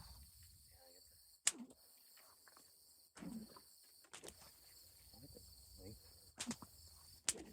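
Sharp whip cracks: a loud one about one and a half seconds in and two more near the end, over a steady high insect hiss.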